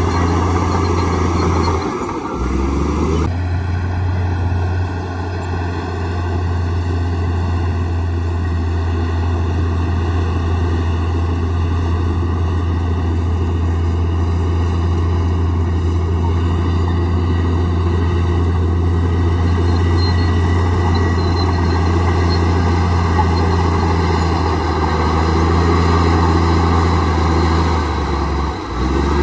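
Komatsu D58E bulldozer's diesel engine running steadily with a low hum, dipping briefly about two seconds in and again near the end.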